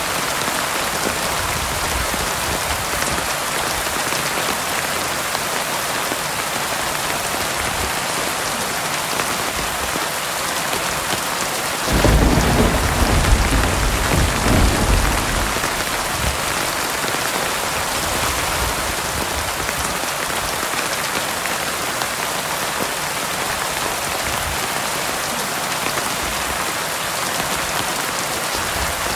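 Steady heavy rain falling, with a sudden low rumble of thunder about twelve seconds in that lasts a few seconds and fades back into the rain.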